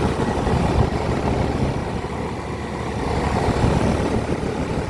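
Comfortmaker air conditioning condensing unit running in cool mode, a steady rush of condenser fan air over the compressor's low hum. It swells a little about a second in and again near the end.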